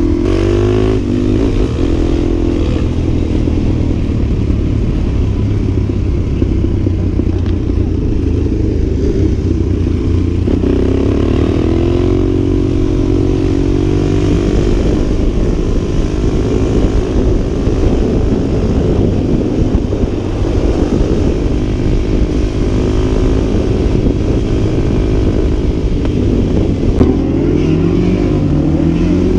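Dirt bike engine running loudly, with the pitch rising as it revs about ten seconds in and again near the end.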